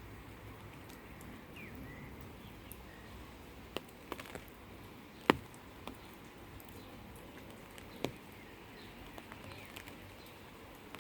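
Gentle rain outdoors, with scattered drops ticking sharply, the loudest about five seconds in, and birds chirping faintly in the background.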